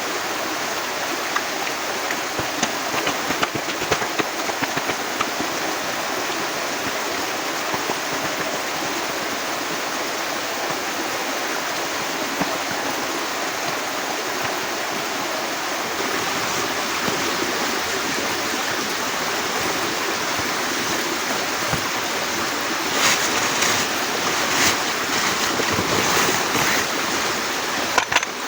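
Heavy rain falling, a steady rushing hiss, with a few sharper taps and knocks near the end.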